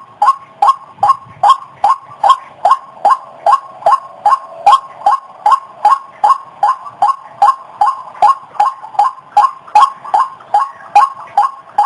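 White-breasted waterhen calling, a fast unbroken series of short, evenly repeated notes, about two and a half a second.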